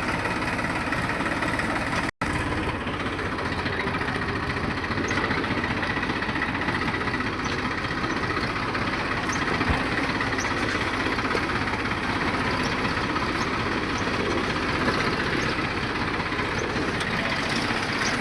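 Deutz-Fahr tractor's diesel engine running steadily, with a momentary dropout in the sound about two seconds in.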